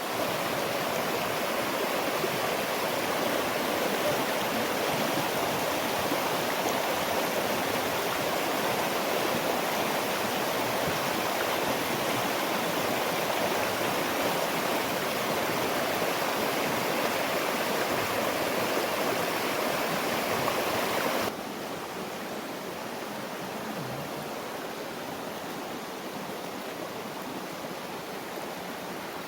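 Steady rushing water noise with no distinct events, dropping abruptly in level about 21 seconds in.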